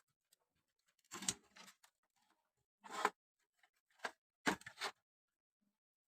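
Handling noise: several short scrapes and clatters, about a second in, at three seconds, at four seconds, and a last, loudest one about four and a half seconds in, with quiet between.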